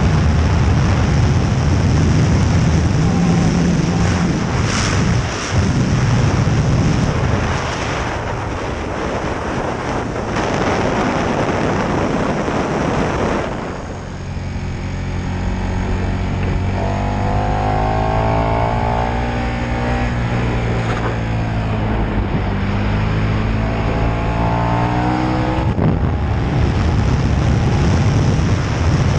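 KTM 1290 Super Duke R's V-twin engine at speed on track, heavily buried under wind noise on the microphone for the first half. About halfway through the wind drops and the engine note comes through clearly, rising and falling in pitch with the throttle, before the wind rises again near the end.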